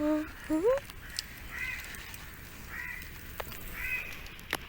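A bird calling three times, about a second apart, after a brief loud hum and a short rising call at the start. Two sharp snaps come near the end.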